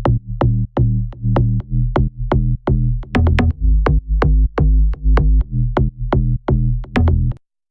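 Electronic bass house loop playing: a punchy synthesized bassline with distortion over a drum-machine beat, with sharp drum hits several times a second. It cuts off abruptly just before the end.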